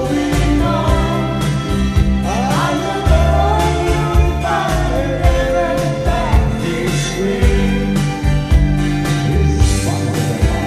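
Karaoke singing over a recorded backing track with a steady beat.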